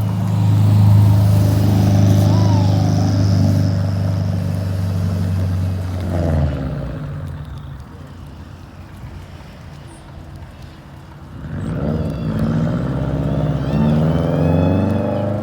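Motor vehicles passing close by on the road. A low, steady engine hum is loud for about the first six seconds and falls away with a sweep in pitch. A second vehicle sweeps past about twelve seconds in.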